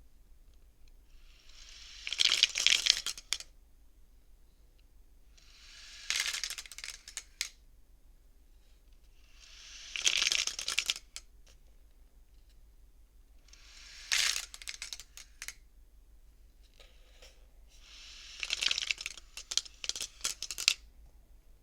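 Beads on a wooden bead counting frame (tama soroban) being slid along their rods, a clattering rattle ending in sharp clicks as they knock together. Five passes, about one every four seconds, with quiet in between.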